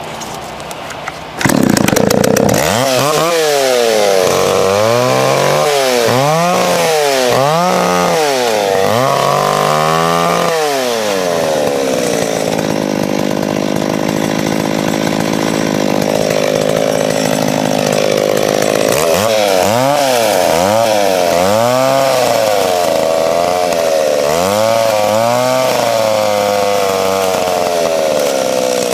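Vintage McCulloch Pro Mac 650 two-stroke chainsaw, loud. It comes in suddenly about a second and a half in. Its engine pitch rises and falls about once a second for the first ten seconds and again in the last ten, and it holds steadier in between.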